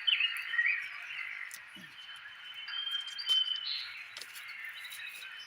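Birds singing: a quick run of falling chirps at the start, then thinner held whistles, over a steady hiss of outdoor ambience.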